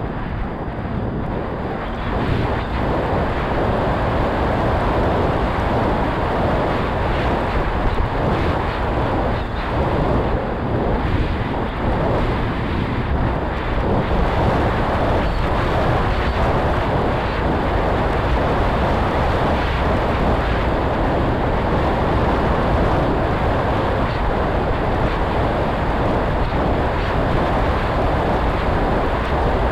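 Strong wind buffeting the microphone, a loud, steady rushing noise that gets louder about two seconds in.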